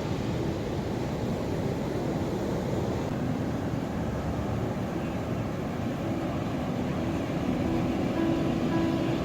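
Ocean waves and surf, a steady low rushing noise, with faint held musical tones coming in near the end.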